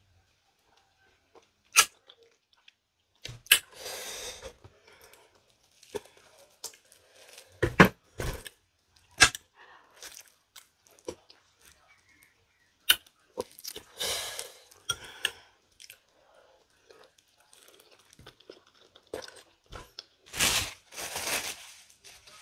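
Close-up eating sounds: biting and chewing santol fruit, with sharp wet mouth clicks and smacks between bites. Near the end comes a louder rustle as a paper tissue is wiped across the mouth.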